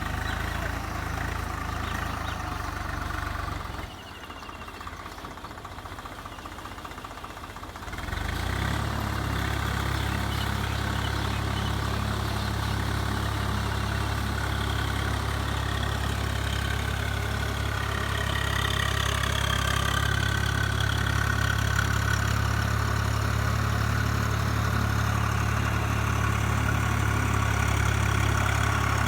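Swaraj 744 FE tractor's three-cylinder diesel engine running. It goes quieter at about four seconds, picks up again at about eight seconds, and then settles into a steady idle.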